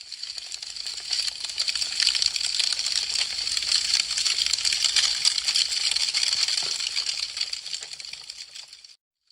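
Wood fire crackling: a dense, rapid run of small sharp crackles and pops. It fades in at the start, builds, and fades out to silence just before the end.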